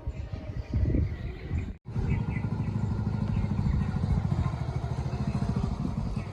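A vehicle engine running steadily with a fast, even pulse; the sound cuts out for a moment about two seconds in.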